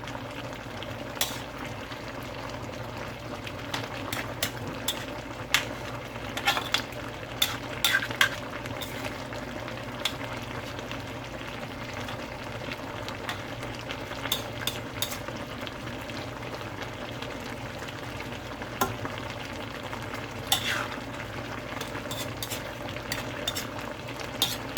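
Chicken curry cooking in a pan with a steady sizzle. A spoon clinks and scrapes against the pan now and then.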